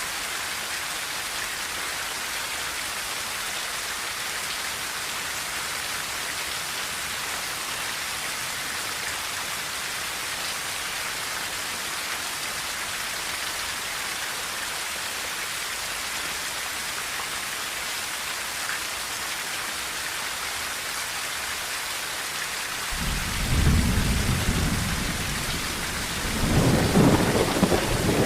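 Steady rain on a tin roof, an even hiss. Near the end, thunder rumbles in low and swells twice, becoming the loudest sound.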